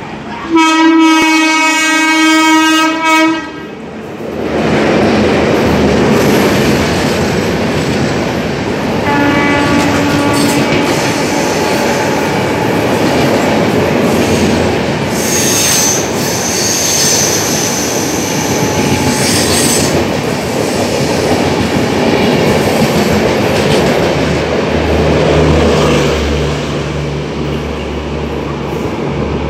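An express train's locomotive horn sounds one loud blast lasting about three seconds, and a shorter, fainter second blast comes about nine seconds in. Then the coaches run through at speed with a steady rumble and wheel clatter, and a high squeal rises over it from about fifteen to twenty seconds in.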